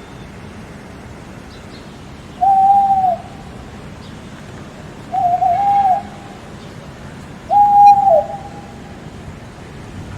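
An owl hooting three times, a few seconds apart, each hoot short with a steady pitch that dips at the end, over a constant hiss of background noise.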